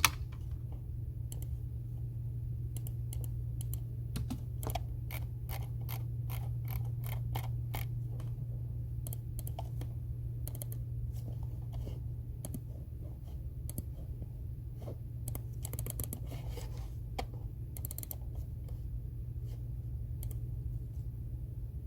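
Computer keyboard being typed on: irregular runs of key clicks, busiest about a quarter of the way in and again about three quarters through, over a steady low hum.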